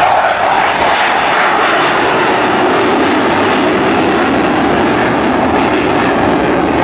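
Aircraft engine noise as an aircraft flies past: a loud, steady rush whose pitch settles lower after the first second or two.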